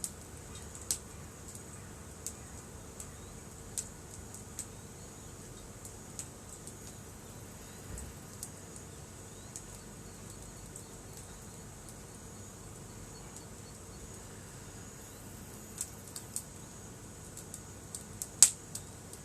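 Wood campfire crackling, with scattered sharp pops at irregular intervals and the loudest pop near the end, over a faint steady high-pitched hum.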